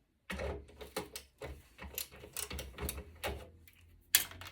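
Irregular clicks, ticks and scrapes of a hand tool working on metal parts of a server chassis and circuit board, over a low hum, with one sharp knock about four seconds in.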